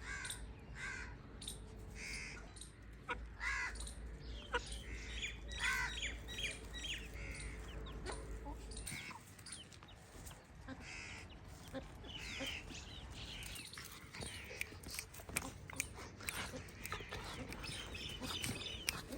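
Birds calling in short, harsh, repeated calls, with many small clicks between them and a low hum that stops about halfway through.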